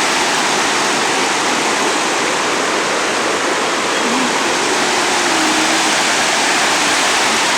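Waterfall on a hill stream: a steady, loud rush of falling water.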